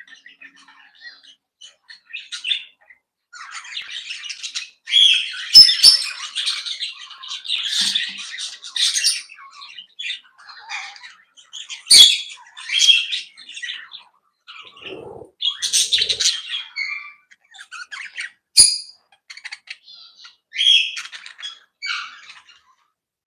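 Aviary parrots chattering and squawking in irregular bursts of calls, with a few sharp clicks in between.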